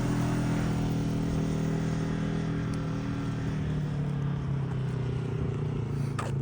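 Motorcycle engine running steadily, its pitch sagging slightly lower over the few seconds.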